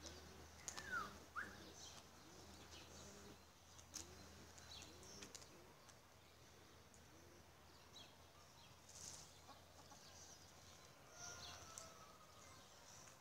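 Faint distant bird calls: a low call repeated about every two-thirds of a second, dying away about halfway through, with two short falling chirps about a second in and a few scattered high chirps.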